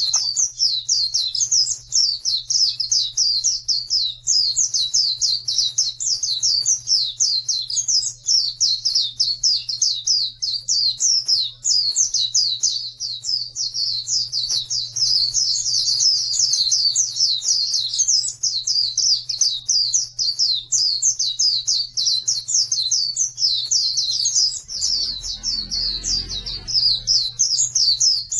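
Pleci (white-eye) singing a fast, unbroken high twittering song of rapid chirps, the 'ngeriwik' song used as a training recording for caged pleci. A steady low hum runs underneath, with a brief low rumble near the end.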